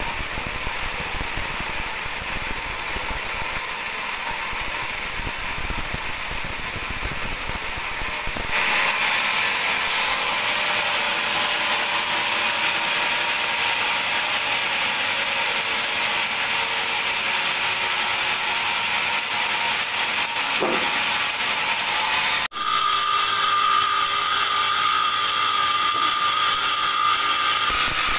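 Large band sawmill running, its blade cutting through a teak log. The noise gets louder and brighter about eight seconds in, breaks off for a moment near the end, then goes on with a steady high whine.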